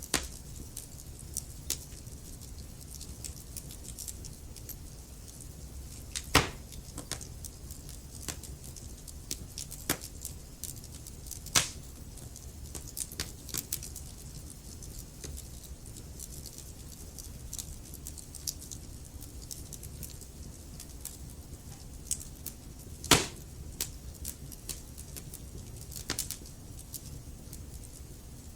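Logs burning in a fireplace: a steady low rumble of flame with frequent small crackles and a few sharper pops, the loudest about six, eleven and twenty-three seconds in.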